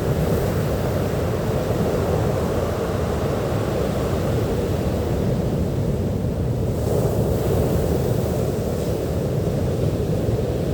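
Sea surf washing onto a beach: a steady, low rushing of waves that swells slightly about seven seconds in.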